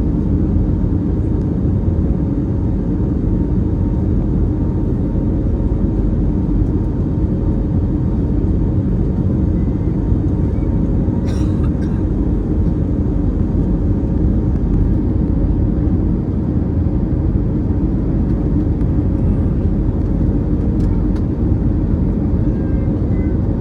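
Airbus A321neo's Pratt & Whitney geared turbofan engines running at a steady, unchanging level, with a constant hum over a deep rush of noise. A single brief click comes about eleven seconds in.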